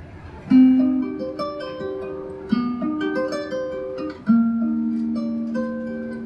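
Acoustic guitar playing a slow introduction of picked notes that ring on, with three firmer plucked chords about half a second in, at two and a half seconds, and just past four seconds.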